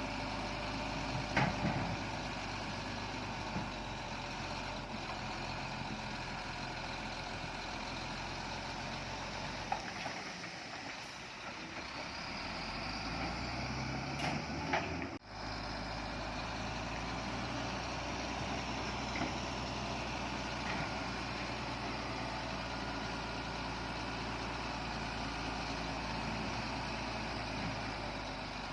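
Heavy diesel earthmoving machinery running steadily, with the engine revving up about halfway through and a few short metallic knocks. The sound breaks off abruptly about halfway in and then carries on.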